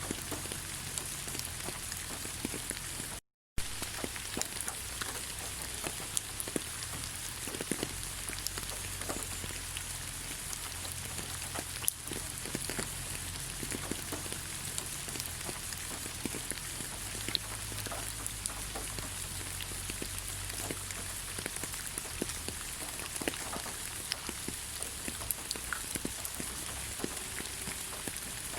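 Rain falling on leaves: a steady patter of many separate drops ticking, cut by a brief total silence about three seconds in.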